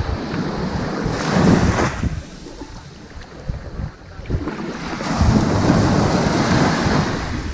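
Ocean waves washing onto a sandy beach: one wave surges and breaks about a second in, the wash fades, and a second, longer wave comes in about five seconds in.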